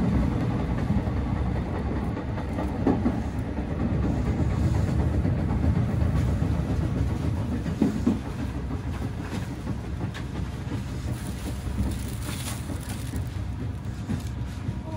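Running noise heard inside a moving Meitetsu commuter train: a steady low rumble of wheels on rails, with occasional sharp clicks.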